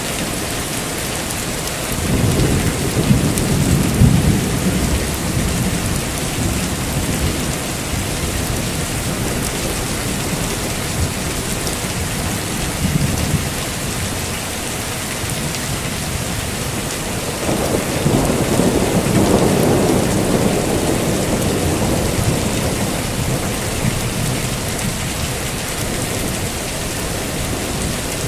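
Heavy rain falling steadily, with two long rolls of thunder rumbling through it, the first about two seconds in and the second past the middle.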